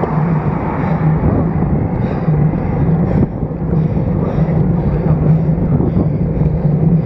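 Steady rushing wind on a road bike's stem-mounted action-camera microphone, with a constant low hum of tyres on the road, while riding at speed.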